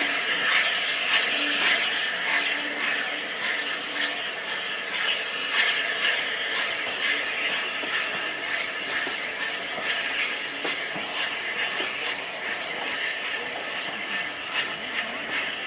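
A train's coaches rolling past, their wheels clicking over the rail joints over a steady rushing noise.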